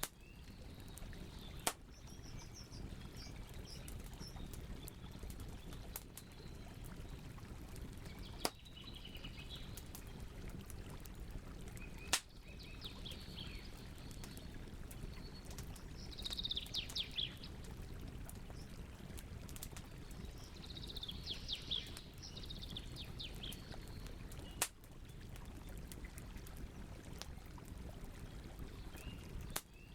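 Campfire burning with a steady low rush and a few sharp pops. Birds chirp in short bursts of rapid trills in the background, most clearly about halfway through and again a few seconds later.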